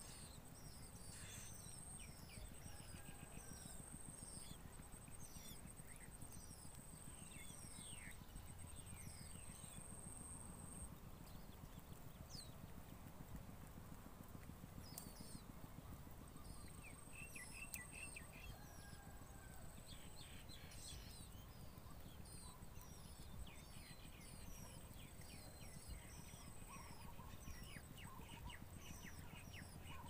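Faint high-pitched chirps of small birds, many short falling notes, over a thin high trill that stops and starts again. A low rumble runs underneath.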